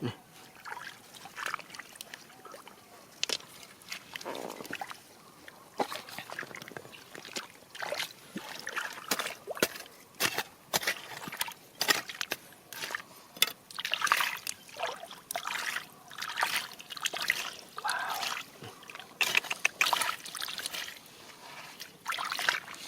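Water splashing and sloshing while river gravel is dug through, with frequent sharp clicks and knocks of stones.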